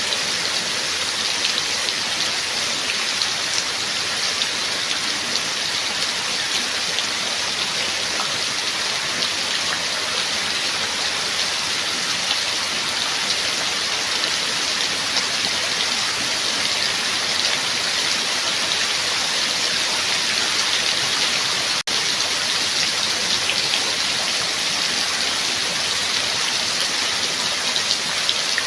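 Steady rain falling: a dense, even hiss of countless drops with fine individual drop hits. It cuts out for an instant about two-thirds of the way through.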